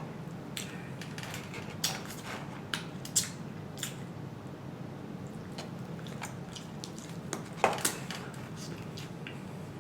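Close-miked eating sounds of a person chewing fried catfish, with scattered sharp wet clicks and smacks over a steady low hum; the loudest come in a pair a little before the end.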